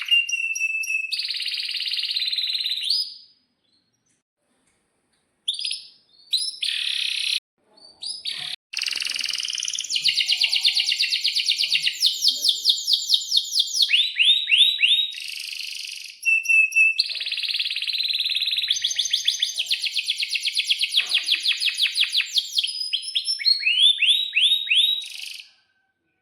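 Domestic canary singing a long song of rapid trills and chirps, its phrases broken by a silent pause about three seconds in. The song includes fast repeated rolls and swooping notes, the kind of song used to train young canaries.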